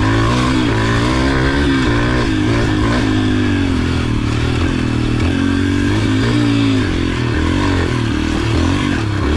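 Yamaha TT-R125 pit bike's single-cylinder four-stroke engine running while being ridden, its pitch rising and falling with the throttle.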